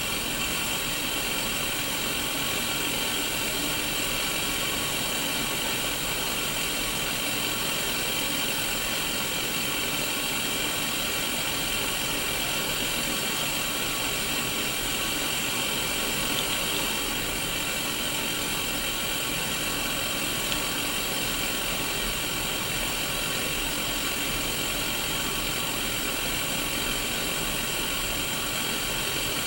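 Static hiss from a Sony Mega Watchman black-and-white mini CRT TV tuned to an empty channel: a steady, even hiss with faint steady tones running through it.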